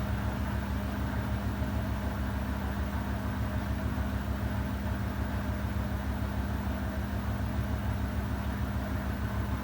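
Samsung digital inverter washing machine running with a steady, even hum and low rumble.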